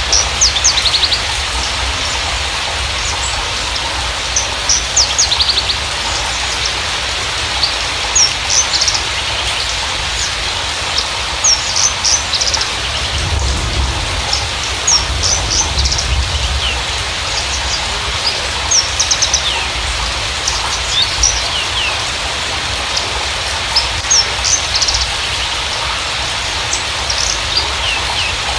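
Javan bushlark (Mirafra javanica parva) singing in short bursts of high chirps and quick trills every few seconds, over a steady hiss.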